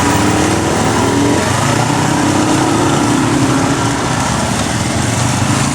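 Motorcycle engines running steadily, their pitch wavering a little.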